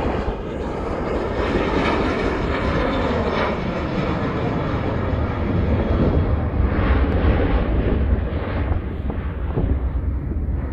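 Jet engines of a DHL Boeing cargo plane on take-off: a steady deep rumble and roar. The hissing top of the sound fades about halfway through.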